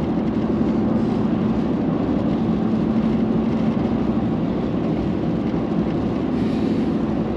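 Steady road noise and engine hum of a moving vehicle, an even rumbling haze with a constant low drone.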